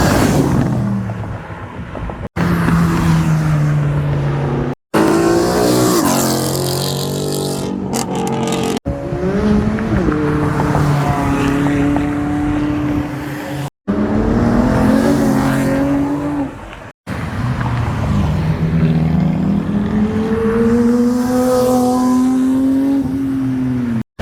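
A series of short clips of car engines revving and accelerating, one after another, with the pitch climbing and dropping in each. The clips are spliced with abrupt cuts about every three to five seconds.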